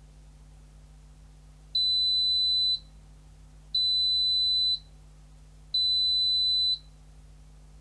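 Zanussi ZKN7120L washing machine's electronic beeper sounding three high, steady beeps, each about a second long and two seconds apart: the signal that the wash programme has finished.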